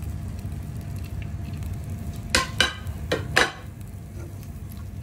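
Chopped shallots frying in oil in an earthenware pot, with a steady sizzle, and a wooden spoon stirring them: four sharp scrapes against the pot come between about two and three and a half seconds in.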